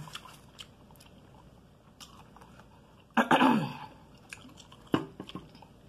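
A person chewing fried chicken, with soft mouth clicks and smacks, and a short falling vocal sound about three seconds in.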